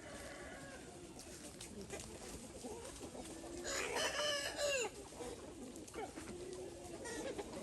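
Chickens clucking, with a rooster crowing once, loudly, a little past the middle.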